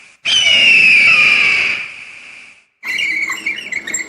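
An eagle's call: one long, shrill scream that falls a little in pitch. Near the end, a frog starts croaking in fast, rapid pulses.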